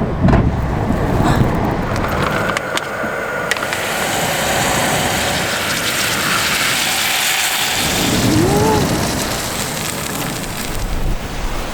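Strong wind gusting hard, buffeting and rumbling on the microphone, with a short rising-and-falling squeal about eight and a half seconds in.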